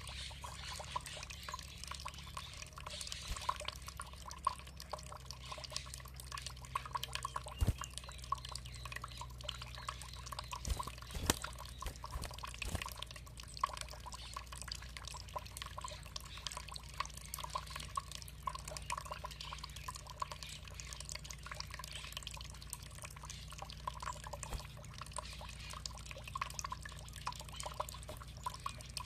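Water trickling and dripping steadily, a continuous run of small splashes, with a few sharper drips standing out between about eight and thirteen seconds in.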